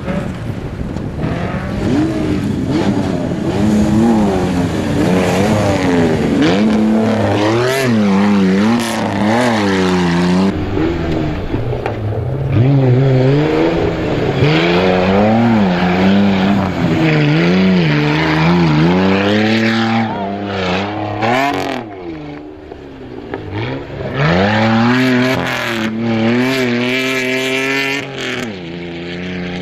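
Off-road rally SUV's engine being revved hard and let off over and over as it scrambles over rough dirt. The note swings up and down every second or two, with a brief lull about two-thirds of the way through.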